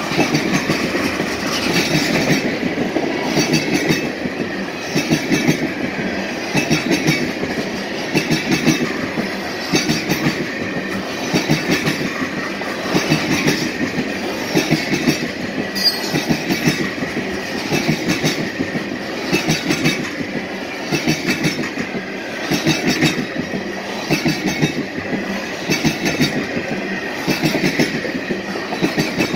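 Wheels of a long string of empty ethanol tank cars clacking over the rail joints as the freight train rolls by, a group of clacks about once a second over a steady rolling rumble.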